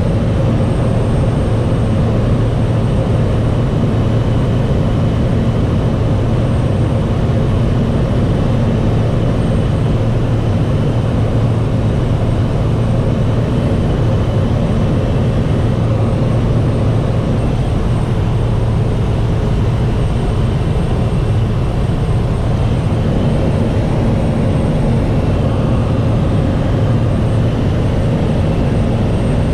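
Light aircraft's engine and propeller running in a loud, steady drone with a constant low hum, unchanging throughout.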